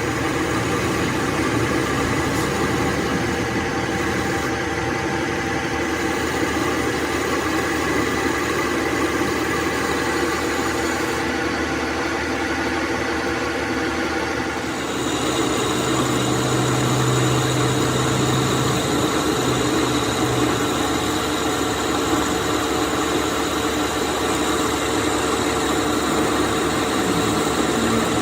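Metal lathe running steadily with a hum and whine. The tone shifts about 15 seconds in and then holds steady again.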